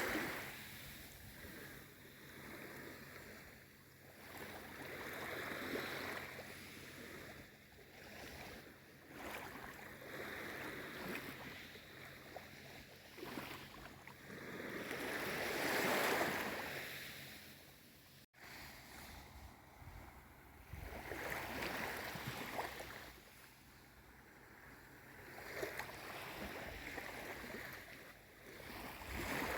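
Small waves of a calm sea lapping and washing in gentle swells, each rising and falling over a few seconds, the largest about halfway through. A momentary break in the sound comes just after the middle.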